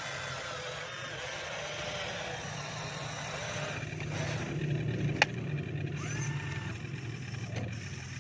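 Remote-control model excavator's electric motors running with a steady low hum, swelling in the middle, with one sharp click about five seconds in.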